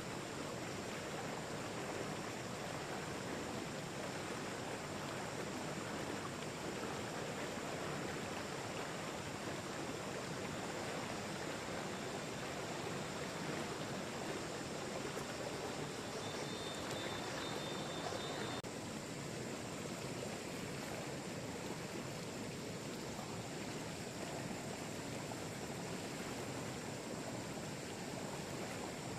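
Steady rushing noise with no clear events in it. Its tone changes abruptly about two-thirds of the way through.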